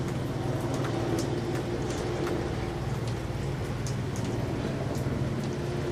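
A vehicle engine running steadily as a constant low hum, under an even wash of noise with scattered sharp ticks.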